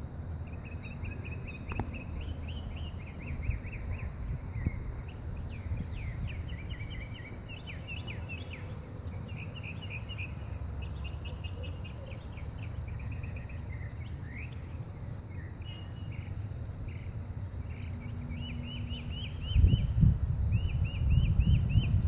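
Birds singing outdoors, short chirps repeated in quick series again and again, over a steady low background noise. Near the end a louder low rumbling noise comes in.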